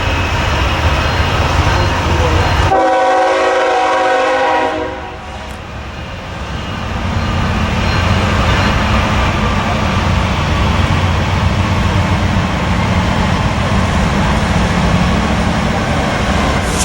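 Diesel locomotive and train running close by with a heavy low rumble. About three seconds in, the rumble drops away and a multi-note locomotive horn chord sounds for about two seconds. The steady rumble of the locomotive engine and rolling train then returns.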